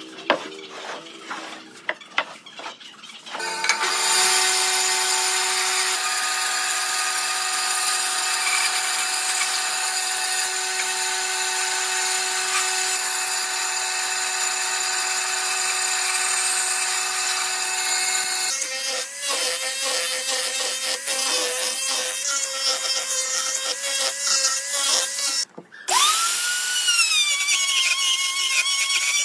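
Electric power tool working wood: a few knocks, then the motor running steadily for a long stretch, turning rougher and wavering in pitch while it cuts, stopping briefly and spinning up again near the end.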